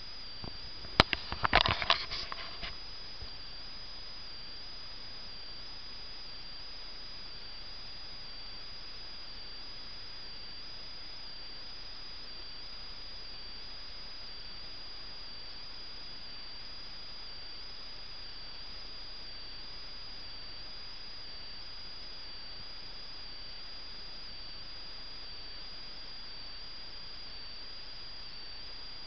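Steady hiss with a thin, high, steady whine, like recording noise, and a brief cluster of sharp clicks and knocks about a second in.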